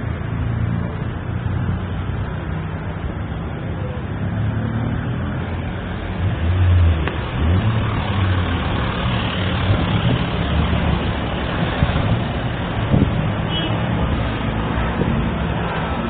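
Road traffic: motor vehicle engines running with a low rumble, swelling louder for a moment about seven seconds in.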